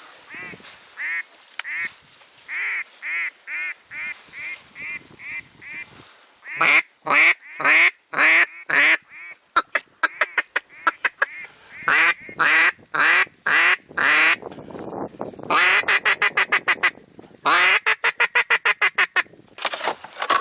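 Mallard-type duck quacking. A run of about a dozen quacks fades away over the first six seconds, then come louder series of quacks, and near the end two fast, chattering runs.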